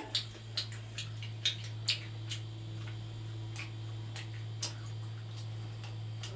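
Closed-mouth chewing of soft shellfish: irregular small wet mouth clicks, about two a second, over a steady low hum that starts at the beginning.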